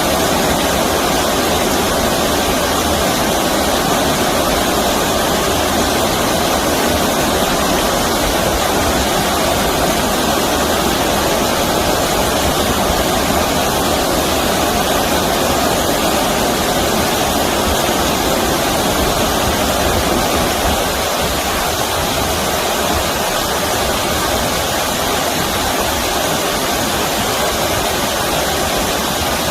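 Stream water rushing steadily over rocks or a weir, a loud continuous splashing, slightly softer from about two-thirds of the way through.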